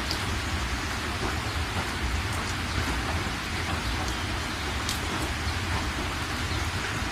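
Steady rain falling, an even hiss with scattered individual drops clicking close by.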